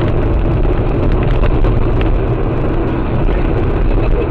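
Steady road and engine noise of a car driving, picked up by a dashcam inside it.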